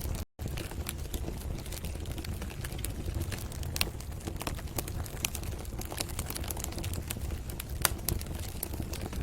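Wood fire crackling in a fireplace, with irregular sharp pops and snaps over a low steady rumble. The sound drops out for a split second about a third of a second in.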